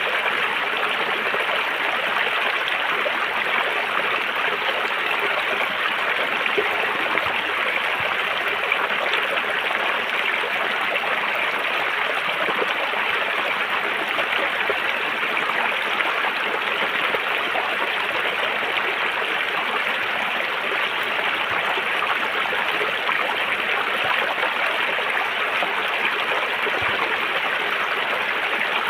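River water flowing and rushing over rocks: a steady, even splashing with no pauses.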